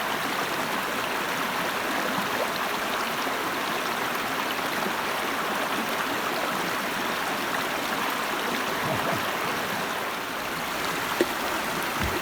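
A river's water running steadily, with one brief light knock near the end.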